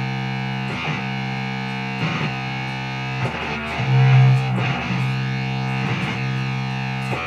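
Instrumental break of a rock song: a distorted electric guitar strums a chord about once every second and a bit, with a louder low note swelling about four seconds in.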